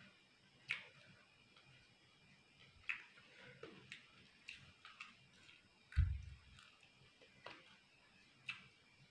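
Faint close-miked chewing of crisp fried chicken pakora and papad: sharp, irregular crunches and mouth clicks roughly once a second, with one low thump about six seconds in.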